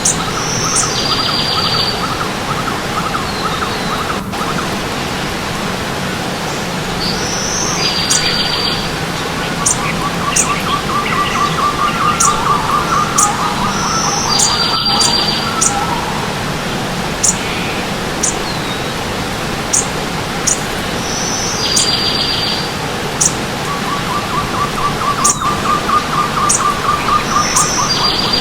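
Several forest birds singing over a steady rush of stream water. One bird repeats the same short buzzy phrase about every seven seconds, thin very high notes come at intervals, and a lower rapid trill of repeated notes sounds twice, for several seconds each time.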